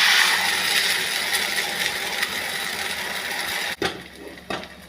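Thin rice batter sizzling loudly on a hot tawa greased with mustard oil, the hiss slowly dying down and then stopping suddenly near the end, followed by a few light clicks.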